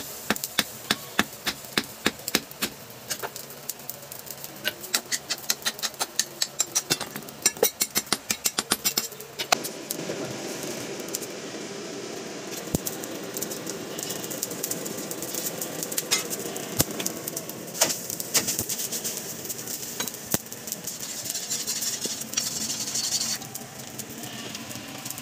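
Hammer blows on metal, a quick even run of about three or four strikes a second, stopping about ten seconds in. A steady mechanical noise without separate strokes follows.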